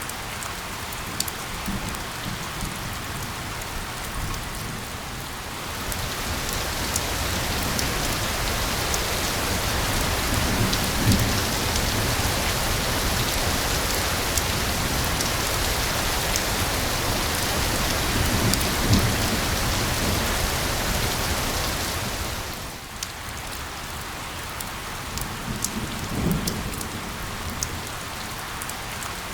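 Steady rain: a dense hiss of falling drops with scattered sharp ticks. It swells heavier about a fifth of the way in and eases back a little past three quarters of the way through. Faint low rumbles come a few times.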